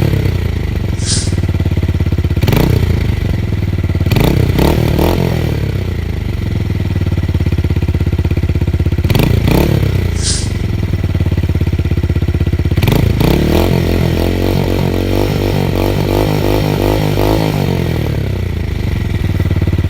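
125 cc motorcycle with a dual straight-through exhaust run without its dB killer, idling and revved: several short blips of the throttle, then a longer rev held for a few seconds past the middle before it drops back to idle.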